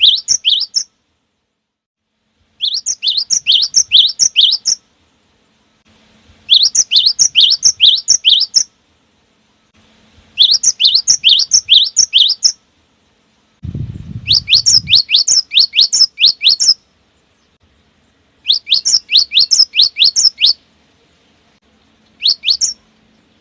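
Cinereous tit (gelatik batu) singing: bouts of about two seconds of rapid repeated high, sharply falling whistled notes, several notes a second, with pauses of about two seconds between bouts. A brief low rumble comes about halfway through.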